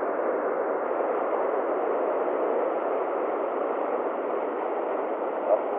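Steady hiss of an airband radio receiver between air traffic control transmissions, with no voice on the channel.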